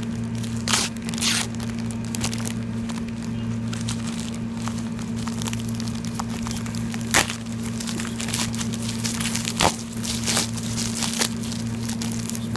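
Plastic packaging being handled and torn open by hand: crinkling and rustling with scattered sharp rips and snaps, the loudest about seven and nine and a half seconds in. A steady low hum runs underneath.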